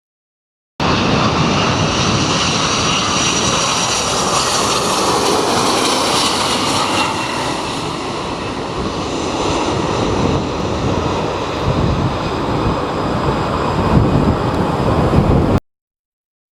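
Jet airliner passing low on its landing approach, its engine whine sliding slowly down in pitch, with strong gusting wind buffeting the microphone. The sound cuts in and out abruptly.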